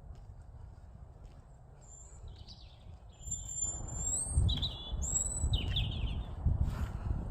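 Birds calling: short whistled chirps that rise and fall in pitch, starting about two seconds in and repeating several times, over a low rumble that comes in about halfway.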